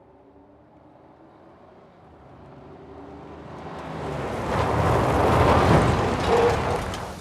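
A car approaching and speeding past: a noisy engine-and-tyre sound that swells over a few seconds, peaks, then fades away quickly.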